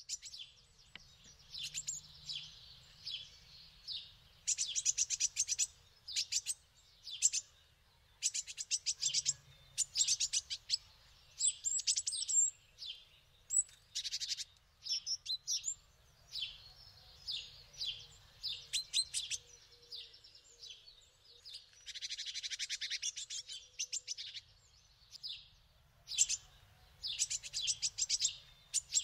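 Songbirds chirping and singing: phrase after phrase of short high chirps and rapid trills, with brief pauses between.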